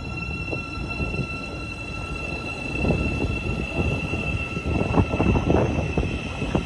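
Train running through the station: a low rumble with a steady high whine throughout, growing louder about halfway through.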